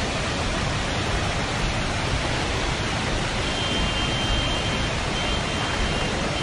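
Steady, loud rushing noise with no separate events, of the kind made by fast-moving water or strong wind on the microphone. A faint high steady whine joins about halfway through.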